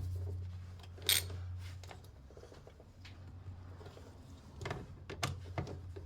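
A few sharp metallic clicks of a hand tool on car battery terminal clamps as they are tightened: a loud one about a second in and a short cluster near the end, over a steady low hum.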